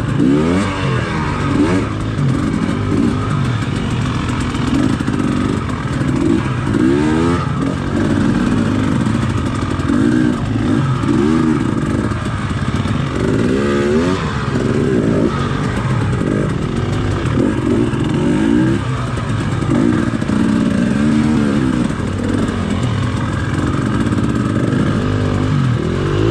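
Dirt bike engine running, revving up and dropping back again and again in short throttle bursts as the bike picks its way over rocks.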